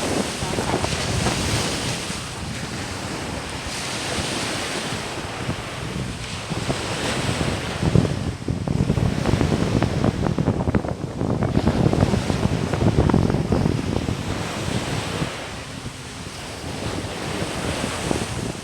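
Sea waves washing onto the shore, swelling and easing, with wind buffeting the microphone. The rush and the wind rumble are strongest in the middle stretch.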